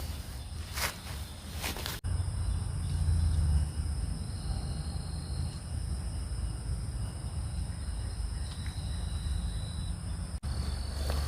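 Night forest ambience: insects such as crickets trill steadily in several high, even tones over a low, steady rumble. A few clicks come in the first couple of seconds, and the sound breaks off sharply twice.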